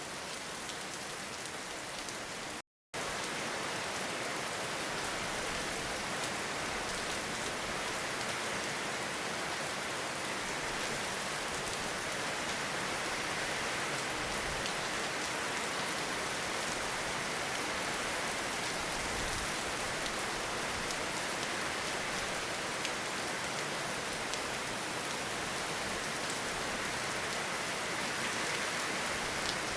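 Steady rain falling, a dense, even hiss with fine drop patter throughout. The sound cuts out to total silence for a split second about three seconds in, then resumes.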